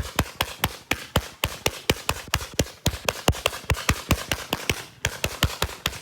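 Fireworks popping in a rapid, fairly even string of sharp cracks, about four to five a second.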